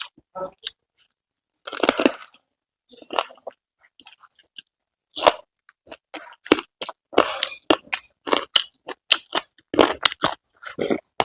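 A person eating: irregular crunching bites and chewing of crisp food, many short strokes at uneven intervals.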